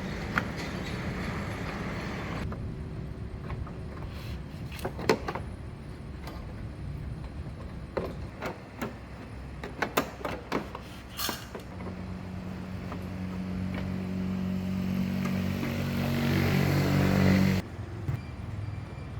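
A small motor running, which stops abruptly about two and a half seconds in. Sharp clicks and knocks follow, then a steady low motor hum builds up from about twelve seconds and cuts off suddenly near the end.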